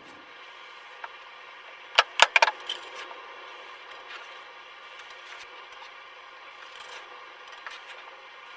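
A quick cluster of four or five sharp clinks about two seconds in, like small hard parts knocking together, over a steady hiss, with a few fainter ticks later.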